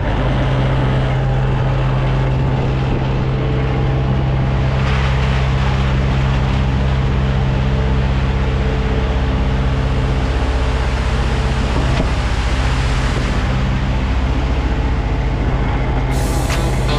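Heavy diesel truck engine running steadily at raised revs, a constant low hum. A hiss of higher noise comes in near the end.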